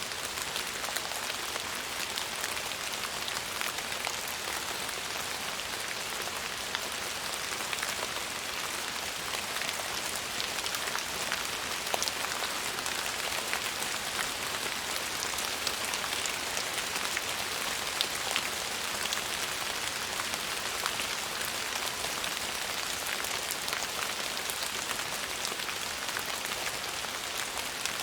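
Steady rain falling: an even hiss with a scatter of small drop ticks, unchanging throughout.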